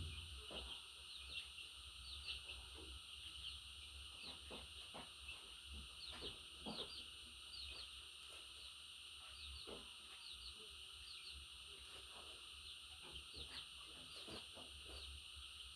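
Pet budgerigar chirping softly: many short, quick chirps scattered throughout, with a few faint clicks between them.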